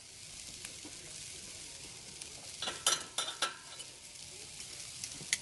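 Sauced chicken wings sizzling steadily over hot charcoal on a Weber kettle grill as the sugary teriyaki glaze chars. About halfway through comes a quick run of sharp clicks, with one more near the end.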